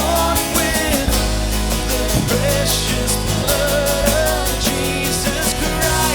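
Live church worship band playing with drums and guitar, a singer's voice carrying a melody over it.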